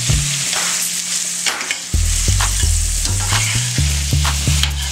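Diced potatoes sizzling in hot grease in a skillet, with a spatula scraping and turning them in several strokes. A low hum that changes pitch in steps runs underneath.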